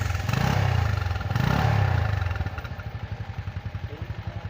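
Honda Wave 125's single-cylinder four-stroke engine blipped twice on the throttle in the first two seconds, then dropping back to a steady idle.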